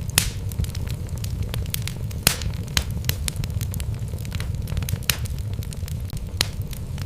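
Wood fire burning in a fireplace: a steady low rumble of flames under frequent sharp crackles and pops from the logs, a few louder snaps scattered through.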